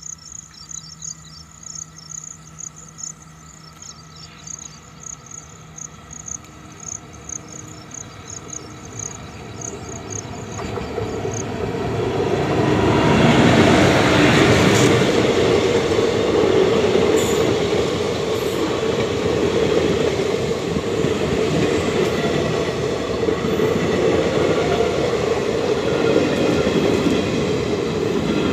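Superfast passenger train approaching and then running close past at speed. A rising rumble peaks about halfway through, then the coaches pass in a steady loud rush of wheels on rails. Insects chirp through the quiet first third.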